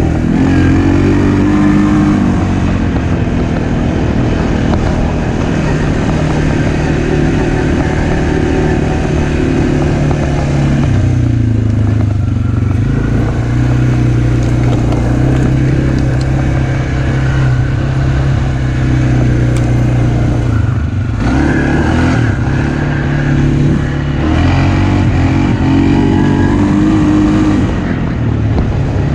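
Kymco MXU 450 ATV's single-cylinder engine running as it is ridden, its pitch rising and falling as the throttle is opened and eased off several times, most clearly near the start and again in the last third. The ride is to warm the oil before an oil change.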